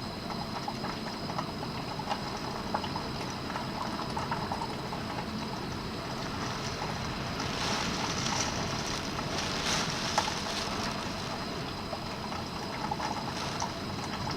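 Typhoon rain and wind: a steady wash of rain with scattered drips and ticks. The wind swells for a few seconds around the middle.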